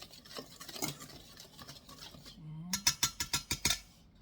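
A utensil stirring a dry mix of flour, sugar and baking powder in a mixing bowl, a soft scraping at first, then a quick run of about seven sharp taps against the bowl about three seconds in.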